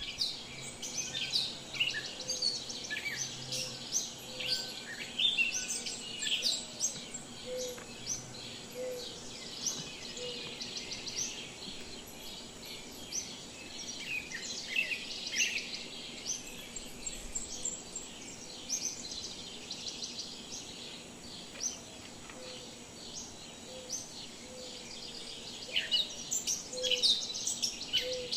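Many small birds chirping and singing together in a dense, overlapping chorus, with a fainter lower call repeating underneath.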